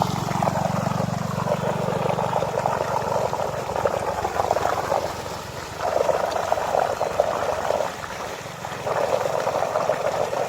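Flowing water splashing in three long spells as a man washes his face in it, with short lulls between. A steady low hum fades out in the first few seconds.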